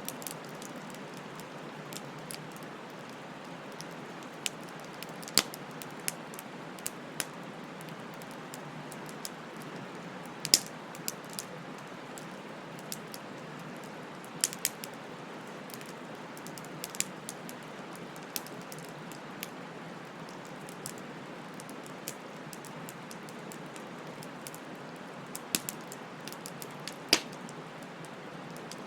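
Wood bonfire burning: a steady soft hiss with irregular sharp crackles and pops. The loudest pops come about ten seconds in and again near the end.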